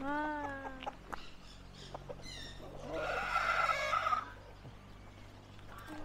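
Domestic fowl calling: a drawn-out call at the start, a short higher call about two seconds in, and a harsh squawk lasting about a second from three seconds in.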